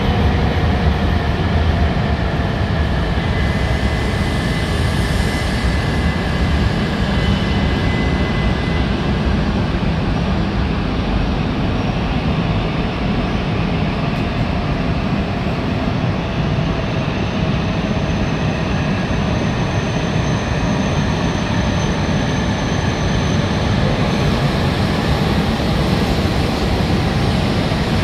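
Coupled E6 and H5 series Shinkansen train pulling out of the station and gathering speed past the platform: a steady rumble of wheels and traction equipment, with thin high tones that come and go.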